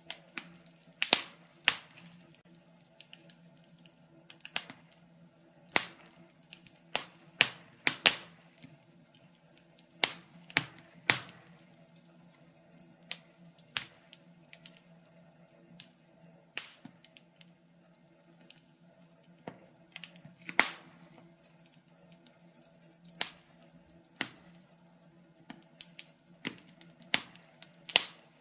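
Wood fire in a fireplace crackling: irregular sharp pops and snaps, a few louder ones standing out, over a faint steady low hum.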